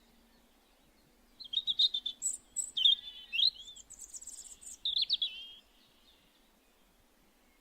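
A small songbird singing one varied, warbling phrase of quick high notes. It starts about a second and a half in and stops about two seconds before the end, over a faint steady background.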